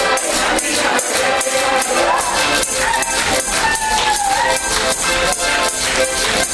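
Live song performance: singing over instrumental accompaniment, with a steady beat of percussion strikes about three a second.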